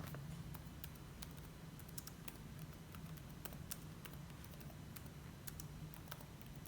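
Keyboard typing: irregular, sparse key clicks over a steady low hum.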